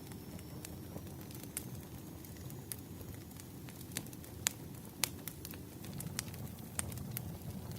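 Wood fire crackling: a low steady rumble of burning logs with irregular sharp pops, the loudest two around the middle.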